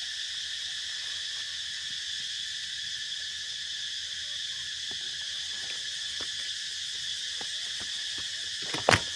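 Steady high-pitched drone of an insect chorus, with a few faint ticks and one sharp click near the end.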